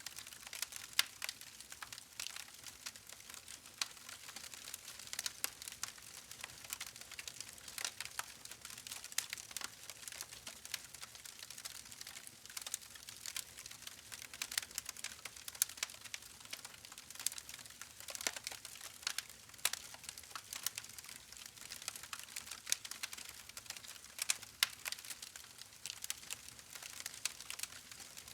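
Campfire burning: wood crackling and popping in irregular sharp clicks over a soft steady hiss, with a few louder pops.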